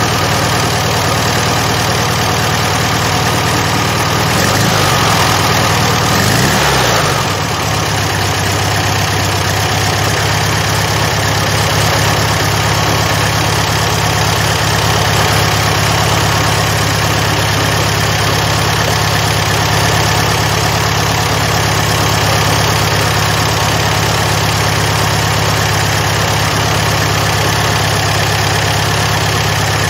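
Freshly rebuilt VW Beetle 1300 air-cooled flat-four engine idling steadily, with a short rise and fall in revs about five seconds in.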